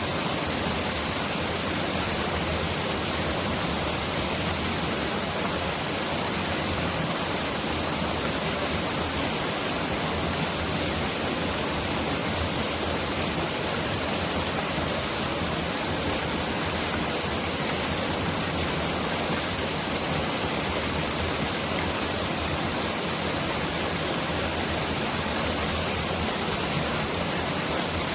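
Mountain valley stream rushing in a steady, even hiss that sounds like heavy rain pouring down.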